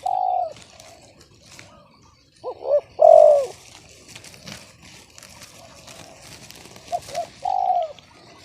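Spotted dove (tekukur) cooing in phrases of two short coos followed by a longer, louder falling coo, heard at the start, about two and a half seconds in and again about seven seconds in. It is a voice the keeper calls sumbang, off-key, rather than the big voice hoped for.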